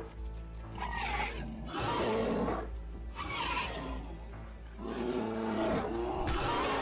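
Animal growls and roars from a fight between a giant entelodont (Deinohyus) and a pack of bear dogs, coming in about four rough bursts, each about a second long, over a steady dramatic music score.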